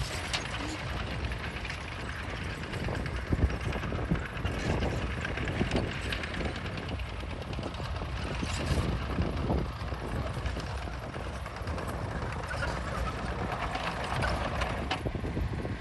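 Bulldozer engine running steadily, with irregular metallic clanks and knocks from its steel tracks and working parts.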